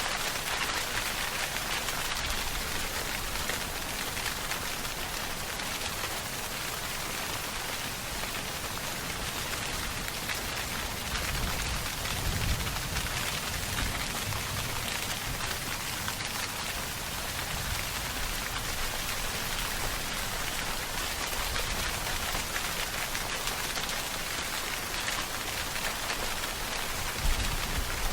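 Steady, heavy rainfall hissing and pattering on surfaces, with a brief low rumble swelling about twelve seconds in and again near the end.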